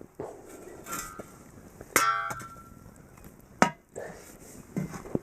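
Knocks and clatter of wood and coals being moved against a cast-iron camp oven, with one sharp metallic clang about two seconds in that rings briefly, and another sharp knock a second and a half later.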